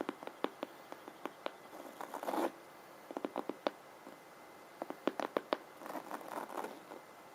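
Rune stones clicking and clacking against one another in quick clusters of sharp clicks, with brief rustling between the clusters as they are handled.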